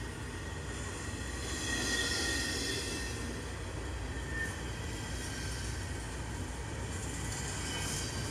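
Freight cars of a long mixed-freight train rolling past on jointed track: a steady rumble of steel wheels on rail, with a high-pitched wheel squeal that swells about two seconds in and fades out by about five seconds.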